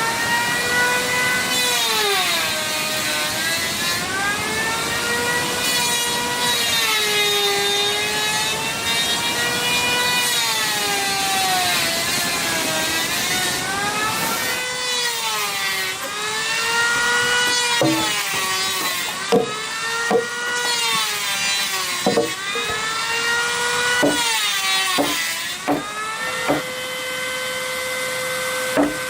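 Electric power tool working wood: its motor pitch repeatedly sags and recovers as it is pushed into the wood and eased off. From about halfway through, sharp knocks come in among it, and near the end the motor runs free at a steady pitch.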